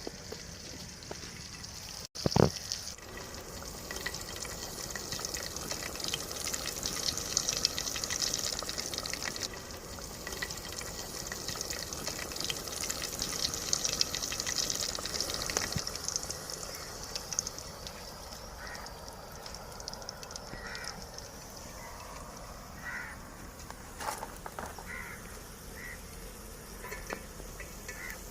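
Cornflake-coated chicken pieces deep-frying in hot oil, a steady sizzle that softens after about sixteen seconds.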